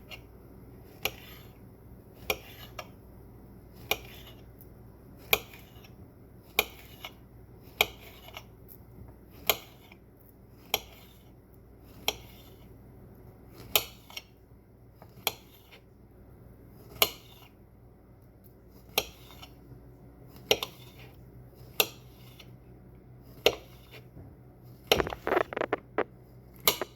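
Small knife slicing a banana on a cutting board, the blade knocking the board with each cut, about one cut every second and a bit, with a quick flurry of cuts near the end.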